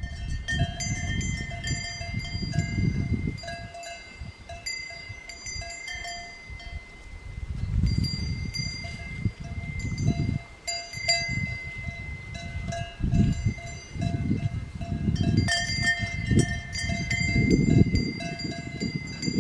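Cowbells on grazing cattle clanking irregularly, a jumble of overlapping ringing notes, with a low rumble that comes and goes underneath.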